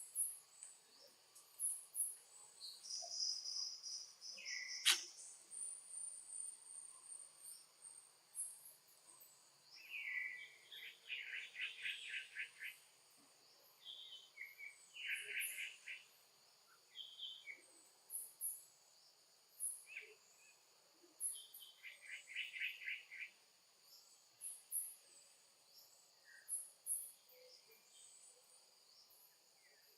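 Steady insect buzzing with scattered short high chirps, and two brief rapid trills, one about a third of the way through and one about three quarters through.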